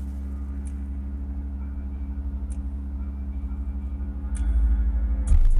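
Car-audio subwoofers in a truck playing a deep, steady bass drone that gets louder about four seconds in; near the end the song hits hard with much louder bass.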